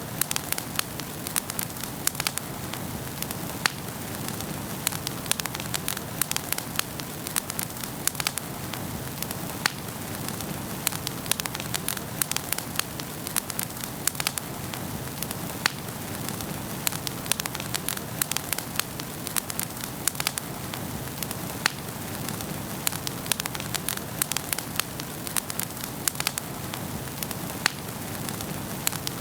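Wood fire burning in a fireplace, crackling with frequent, irregular sharp pops over a steady hiss of the flames.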